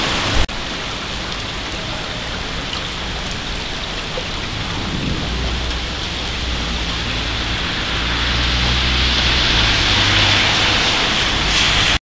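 Heavy rain falling steadily, with a sharp click about half a second in and a low rumble from about five to ten seconds in. The rain grows louder toward the end and cuts off abruptly.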